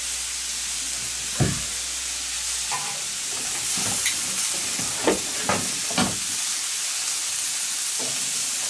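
Peeled shrimp sizzling steadily in oil on a hot griddle plate over charcoal, with a few sharp clicks and knocks of metal tongs against the plate as the shrimp are turned, bunched together in the middle.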